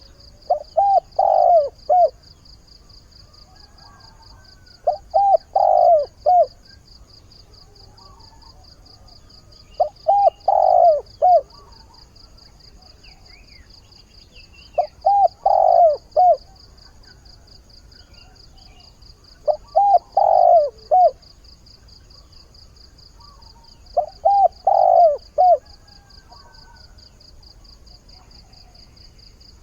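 Male spotted dove, a decoy bird, cooing its call to lure wild doves: six short phrases of a few notes each, about every five seconds. A steady, rapid high insect trill runs underneath.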